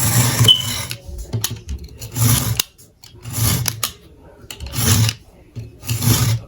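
Repeated rasping or scraping strokes by hand, five of them, about one every second and a bit.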